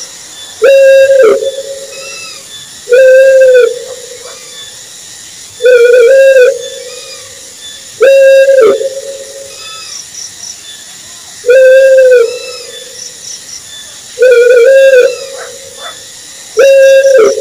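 An owl hooting over and over, seven short level-pitched hoots each under a second long, repeating about every two and a half to three seconds.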